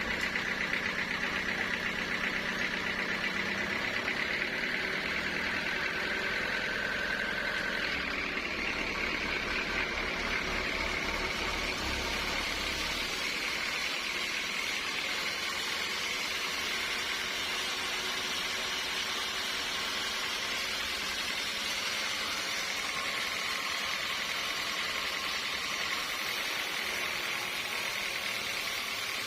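Sawmill machinery running steadily, with a low motor hum that drops away about thirteen seconds in while a steady higher-pitched machine noise carries on.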